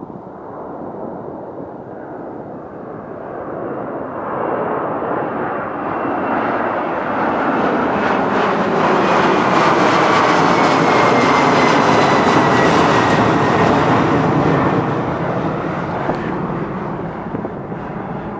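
Boeing 767-300F freighter taking off, its twin turbofan jet engines at takeoff thrust: a rumble that swells to a loud peak as the plane passes and then fades away, with a high engine whine that slides down in pitch as it goes by.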